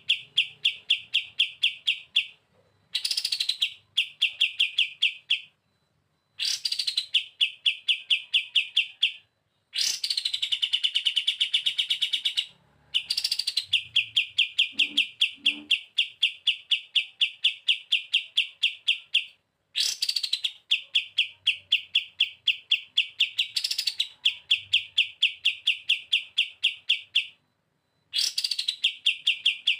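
A kapas tembak songbird singing its long, machine-gun-like 'bren' trills: fast runs of evenly spaced notes about 2–6 seconds long, broken by short pauses. Most runs open with a short note sliding downward.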